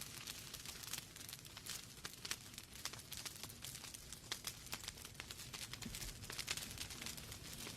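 Wood fire burning in a fireplace: logs crackling with many small irregular pops and snaps over a low, steady rumble of flame.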